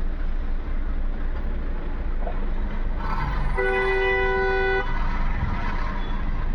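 A low, steady idling rumble throughout, with a vehicle horn sounding once, held for just over a second, about three and a half seconds in.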